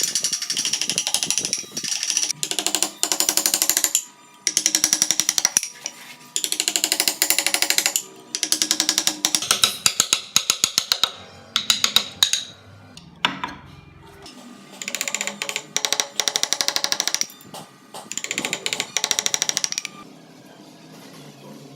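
A power carving tool hammering into wood in repeated bursts of rapid strikes, each burst lasting one to two seconds with short pauses between, falling quieter for the last couple of seconds.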